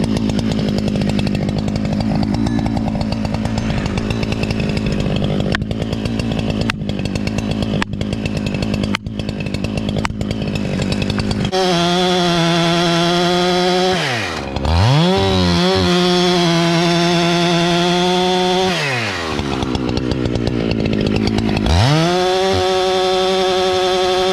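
Two-stroke chainsaw cutting a large white oak trunk at full throttle. In the second half the engine twice drops to idle and is revved back up, the pitch falling and then rising.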